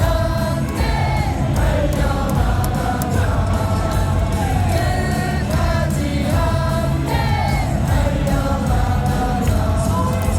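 Baseball stadium crowd singing a cheering song in unison over loud music from the ballpark loudspeakers.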